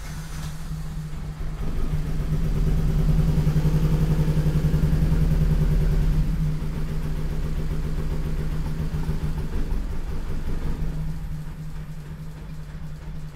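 Turbocharged Honda B16 engine trying to start on a calibration that won't get it running. It turns over louder for about four seconds, then goes on at a lower level and fades near the end.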